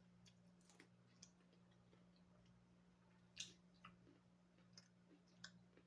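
Near silence: room tone with a low steady hum and a few faint scattered clicks, the loudest about three and a half seconds in.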